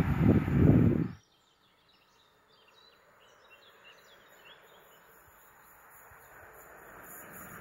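Loud noise of a passing train cuts off abruptly about a second in. Birds then chirp, and the faint, slowly growing sound of an EP09 electric locomotive with an intercity train approaching along the line is heard.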